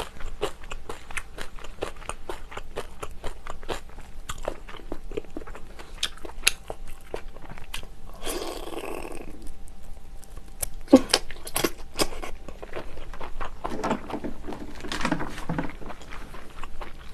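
Close-miked mouth sounds of eating: chewing chewy monkfish flesh and rice from a spicy seafood soup, with many wet smacking clicks. About eight seconds in, a slurp as another soup-soaked bite goes in.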